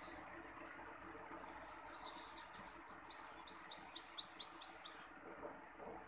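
A songbird singing: a few softer twittering notes, then a loud series of about nine quick rising whistled notes, around four a second, that stops about five seconds in.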